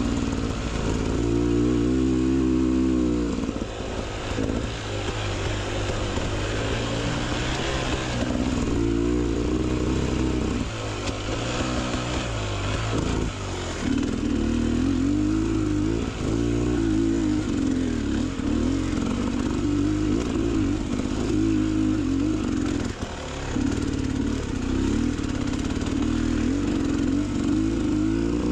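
Beta Xtrainer 300 two-stroke dirt bike engine under way on a trail, its pitch rising and falling as the throttle is opened and closed every few seconds, with brief lulls where it is backed off.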